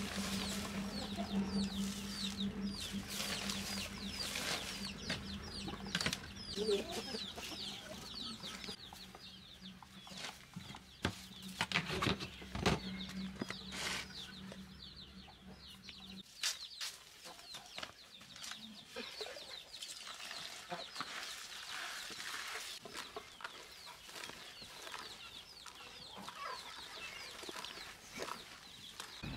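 Chickens clucking, with many short high peeps in quick succession. There are a few sharp knocks around the middle, and a steady low hum stops about halfway through.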